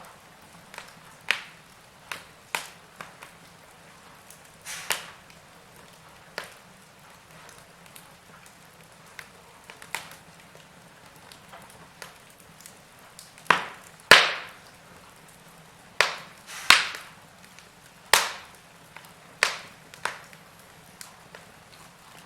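Wood fire in a fireplace crackling: irregular sharp pops and snaps, a few of them loud, over a faint steady hiss.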